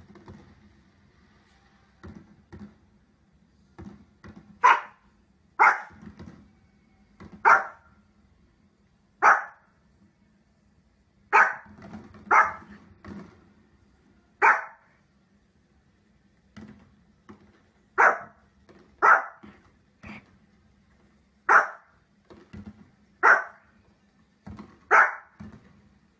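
A dog barking in single sharp barks, about a dozen of them, one every second or two, starting about five seconds in, with fainter softer sounds in between.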